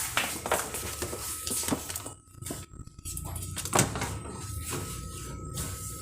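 A few light knocks and clinks of containers and shelf parts being handled in a refrigerator, the sharpest knock about four seconds in, over a faint steady hum.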